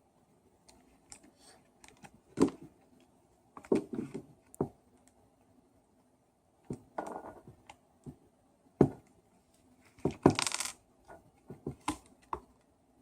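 Irregular clicks, knocks and light clattering of small hard parts and tools being handled, during reassembly of a Bosch hammer drill's wiring and housing. A short scraping rustle comes about ten seconds in.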